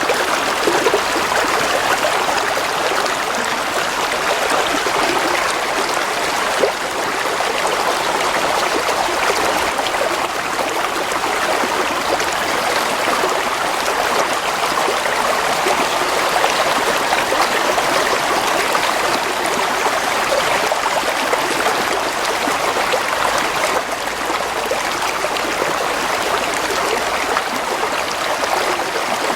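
A stream flowing, a steady, even rush of water with small trickling sounds.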